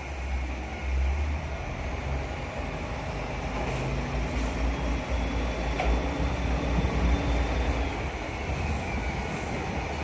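KiHa 40 diesel railcars running on the line: a deep engine and rail rumble that builds to its loudest about six to seven seconds in, then eases, with a thin high squeal in the middle.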